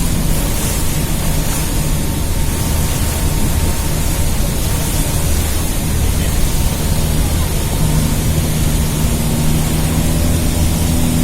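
The Rhine Falls waterfall giving a loud, steady rush of falling water, with a low steady hum underneath that grows stronger about eight seconds in.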